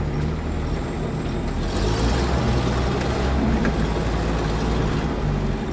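Off-road 4x4's engine running steadily as it drives along a rough dirt track, heard from inside the vehicle, with a dense rumble of road and body noise. Its low note shifts about two seconds in.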